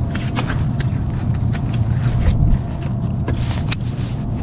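A steady low rumble with scattered light clicks and taps of fishing tackle being handled while the angler deals with a tangled line.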